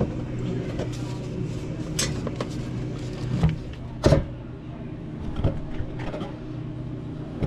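Knocks and clatters of parts being handled, the loudest about four seconds in, over a steady mechanical hum.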